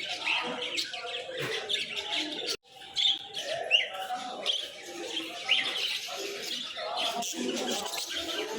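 Many small birds chirping together in a dense, unbroken chatter of short, high calls. The sound cuts out for an instant about two and a half seconds in.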